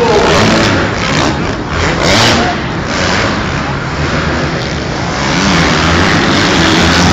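Motocross bike engines running and revving, with a falling engine note just at the start.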